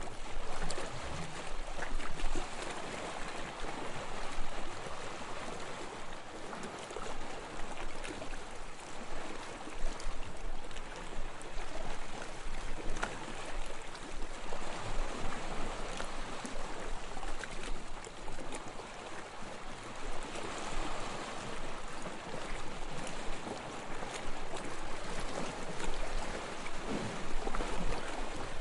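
Sea water lapping and splashing in a steady wash, with many small sharp splashes throughout.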